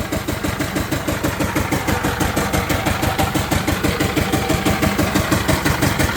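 Diesel engine running steadily, with an even rhythmic beat of about six or seven pulses a second.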